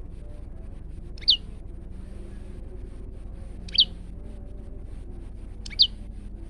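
Male prenjak lumut giving three short, loud chirps about two seconds apart, each sweeping down in pitch, over a steady low hum.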